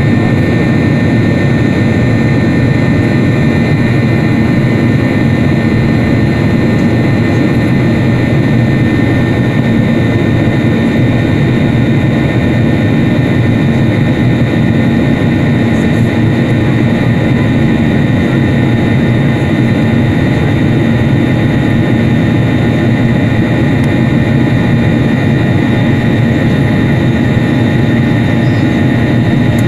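Steady cabin noise of a jet airliner in flight: an unchanging rush of engine and airflow noise with a few faint steady tones running through it.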